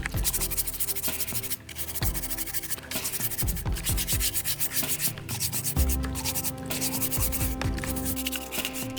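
Sandpaper rubbing back and forth in quick repeated strokes, as in hand sanding a part during restoration.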